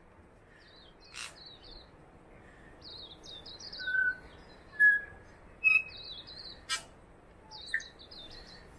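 Small birds singing in New Zealand forest: short, high, trilling phrases repeated every second or two, with a few clear single whistled notes between them and a couple of sharp clicks.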